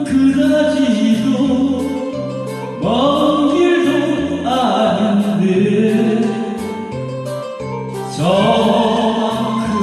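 Korean trot backing track in an instrumental interlude, with a steady beat, a stepping bass line and a gliding lead melody.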